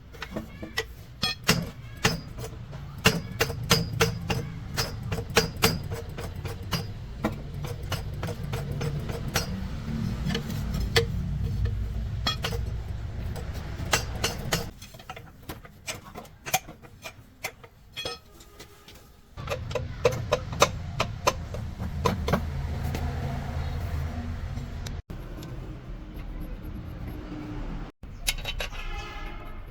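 Repeated sharp metallic clinks and knocks of steel gearbox parts being handled and tapped, over a low rumble that drops out for a few seconds midway.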